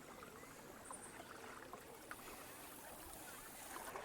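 Faint gurgling and trickling of creek water around a kayak, with scattered small ticks and splashes.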